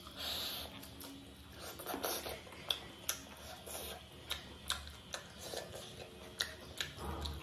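Close-miked mukbang eating sounds: chewing a spicy chicken leg piece with rice, with short sharp wet mouth clicks and smacks scattered throughout, and fingers working rice on the plate.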